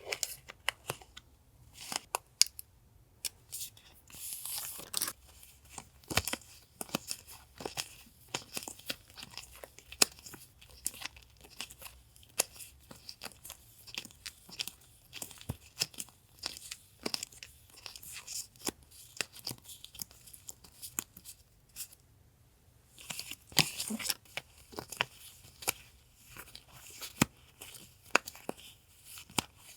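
Stickers, paper sheets and plastic packaging being handled and unpacked: rustling and crinkling with many small taps and clicks, and longer rustles about four seconds in and again a little after twenty-three seconds.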